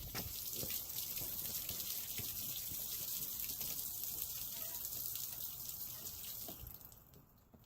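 Faint running and trickling water with small drips, right after the boat's engine has been shut off; it dies away about seven seconds in.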